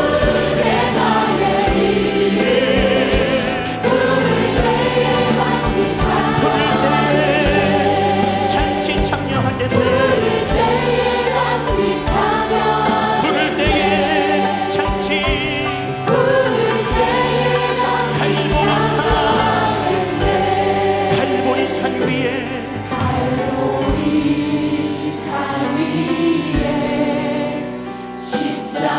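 A choir sings a Korean hymn with instrumental accompaniment, held low notes underneath and regular percussive hits.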